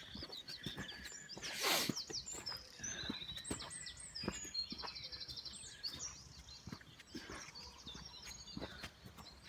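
Footsteps on a woodland path with birds singing all around, including a fast trill about five seconds in. A brief louder rustle comes just under two seconds in.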